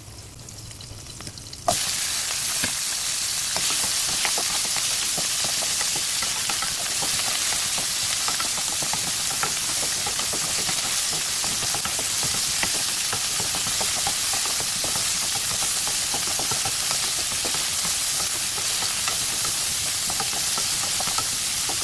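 Blanched burdock root going into hot olive oil in a pan about two seconds in, then sizzling steadily as it is stir-fried, with small scattered clicks.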